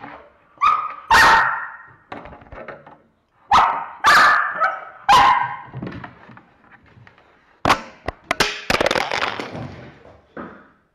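A dog barking loudly, about five sharp barks in two bunches, then a run of knocks and clatter near the end as the camera is knocked down.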